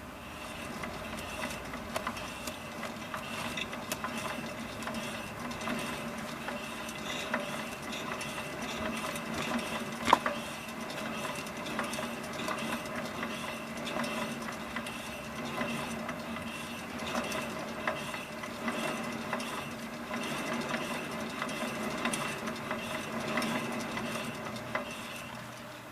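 Renault Logan running: a steady mechanical hum with several held tones, and rapid light ticking and rattling throughout. A single sharper click comes about ten seconds in.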